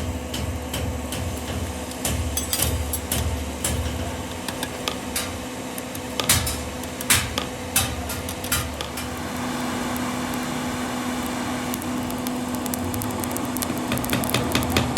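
Irregular hammer taps and knocks on metal, some sharp and ringing, over a steady low workshop machine hum. A steadier drone joins about nine seconds in.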